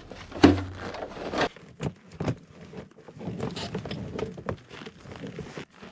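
Rustling and handling noise with scattered knocks and clicks, the sharpest knock about half a second in, growing fainter toward the end.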